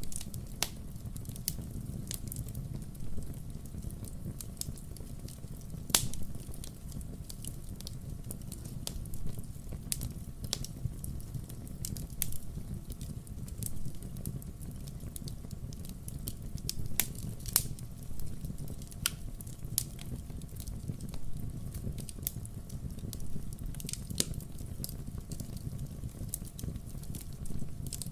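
Wood fire crackling: irregular sharp pops and snaps over a low, steady rumble, with one louder pop about six seconds in.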